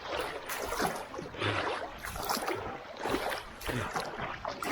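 Swimmer's arm strokes splashing in river water, a splash about every two-thirds of a second, with faint voices in the background.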